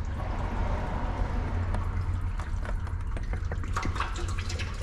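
Oil running steadily out of the opened drain-plug hole of a 1989 Kubota KH040 excavator and splashing into a catch pan, with a steady low rumble beneath.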